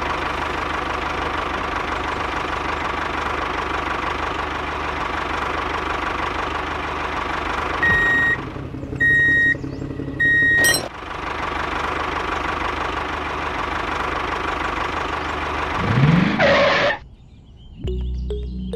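Diesel engine of a mini tractor running steadily, broken by three short horn beeps about eight to ten seconds in. Near the end the engine pitch rises sharply, then the sound cuts off.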